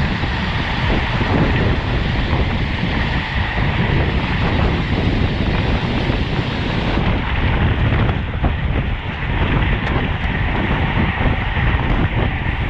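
Wind rushing steadily over the microphone of a camera carried on a racing bicycle at speed.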